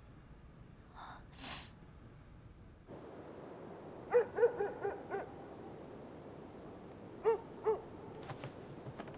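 A night bird calling over faint outdoor night ambience: a quick run of short hooting notes about four seconds in, then two more a few seconds later. Before that, a couple of soft breaths.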